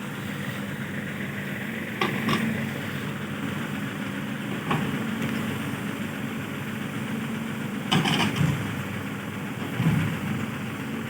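Heavy diesel engine running steadily at a low idle, with a few short knocks, two close together about two seconds in and another pair about eight seconds in.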